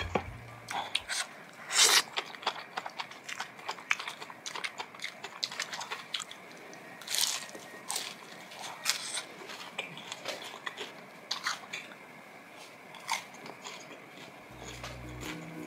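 Close-up eating sounds: crunchy bites and chewing of crisp food, with the loudest crunches about two seconds in and again near seven seconds.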